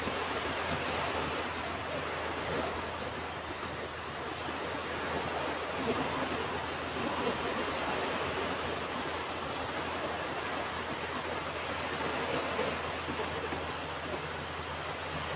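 Ocean surf washing onto a beach: a steady rushing wash of waves that swells and eases gently.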